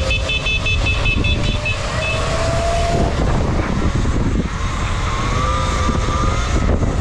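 Wind rushing over the microphone and road noise while riding a Surron electric dirt bike, with a thin whine that rises in pitch about two to three seconds in.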